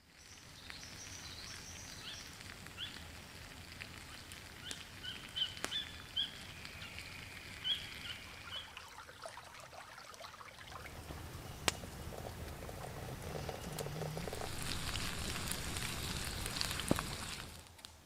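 Rainforest birds chirping in short, stepped calls over a steady low hiss. About halfway through, a louder steady rushing sound with a few sharp cracks takes over, then cuts off suddenly near the end.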